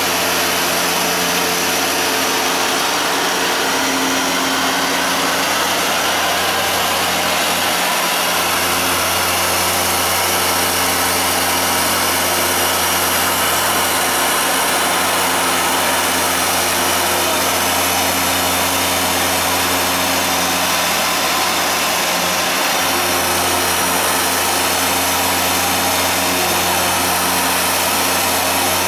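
Hoover Dual Power Max carpet washer running steadily, its motor hum under the broad rush of suction and scrubbing brushes as it cleans and extracts from the carpet. The low hum dips briefly twice, about eight seconds in and again near twenty-two seconds.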